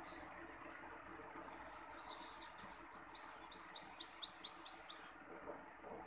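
A songbird singing: a few softer, falling twittering notes, then a run of about eight loud, quick, rising high notes that stops abruptly.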